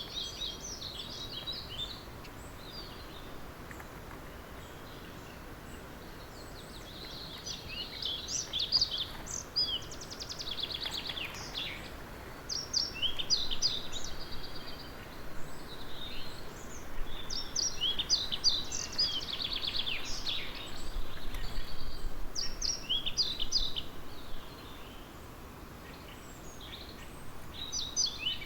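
Several songbirds singing in an early-morning chorus, with short high chirping and trilled phrases overlapping one another. The singing is sparse at first, becomes busy from about a third of the way in, and thins out near the end, over a steady faint background hiss.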